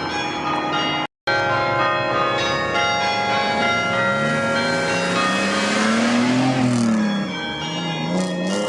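Bells ringing, then a car engine accelerating away, its revs climbing for a couple of seconds, dropping back, and climbing again near the end.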